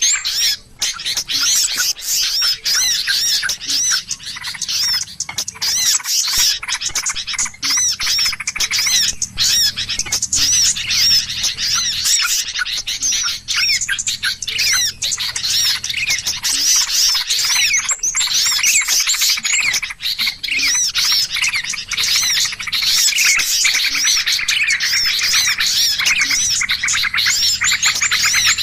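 A dense, noisy chorus of many small birds chirping and squawking over one another without pause: a bird-lure ('pikat ribut') recording meant to draw small birds in.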